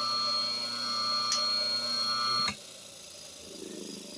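Antique Western Electric electric motor running steadily at about 1800 RPM with an even whine, a speed indicator held against its spinning shaft. The sound stops abruptly about two and a half seconds in.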